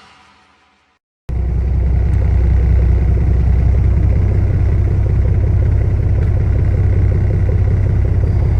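Intro music fading out, a moment of silence, then a loud steady low rumble cuts in about a second in: a fishing boat running underway.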